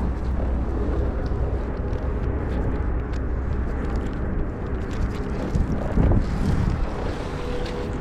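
Wind buffeting the microphone outdoors on open water, a steady low rumble, with a few brief louder knocks about six seconds in.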